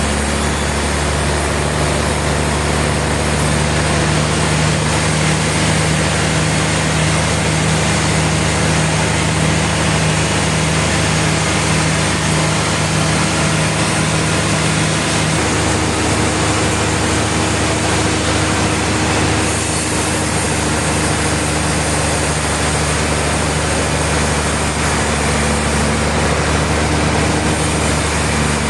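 Sawmill machinery running steadily, a loud engine hum under a constant rushing noise; one low tone in the hum drops away about halfway through.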